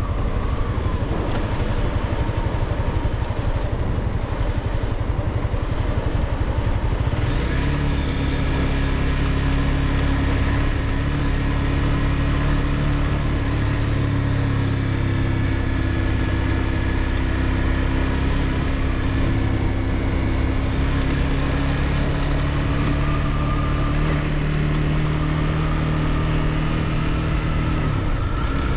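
Honda CBR300R's single-cylinder engine running steadily, with wind and road noise. The engine note changes about seven seconds in and falls off near the end.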